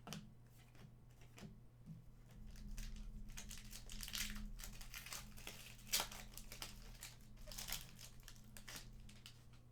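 Plastic packaging crinkling and rustling in irregular crackles as trading cards and their wrappers or sleeves are handled, with one sharper snap about six seconds in.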